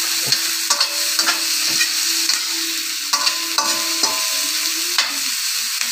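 Sliced onions sizzling in hot oil in a stainless steel wok, stirred with a metal spoon that scrapes and clicks against the pan.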